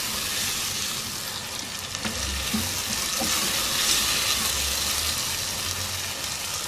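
Blanched mixed vegetables frying in hot oil in a pot, a steady sizzle, while a spatula stirs them through.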